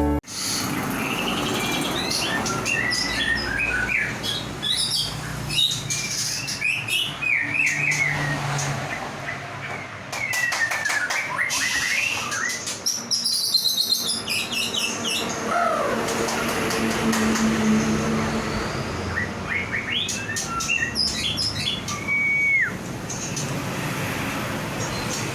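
White-rumped shama (murai batu) singing a long, varied song of clear whistled phrases that glide up and down, broken by short pauses. Near the end comes one long held whistle that drops off at its close.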